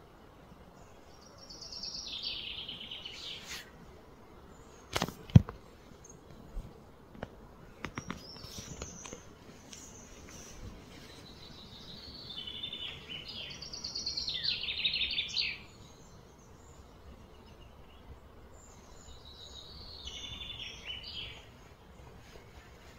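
A bird singing three high, trilled phrases of fast repeated notes that glide downward, over faint outdoor background noise. A few sharp clicks come between the phrases, the loudest about five seconds in.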